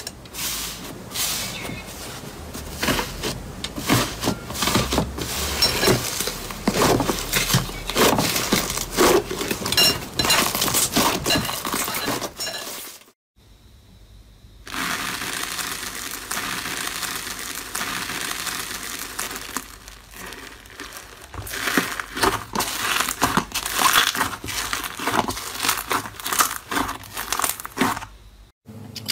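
Slime being squeezed and pressed by hand, giving dense, irregular crackles, pops and squelches, with a short silent break about 13 seconds in where one clip gives way to the next.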